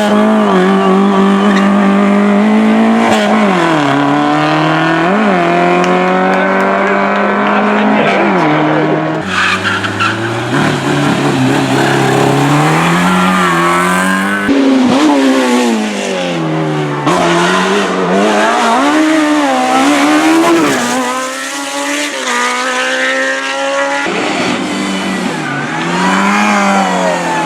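Hillclimb race car engines at high revs, repeatedly climbing in pitch and dropping back as the cars accelerate and shift up through the gears. The sound changes abruptly a couple of times, where one car's run gives way to another's.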